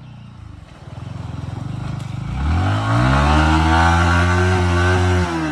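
Motorcycle engine revving up about two seconds in, holding high revs, then dropping back just before the end.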